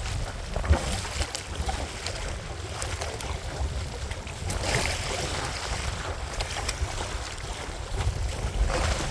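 Strong wind buffeting the microphone in a steady low rumble, with choppy water splashing against a small kayak, surging a little about halfway through and again near the end.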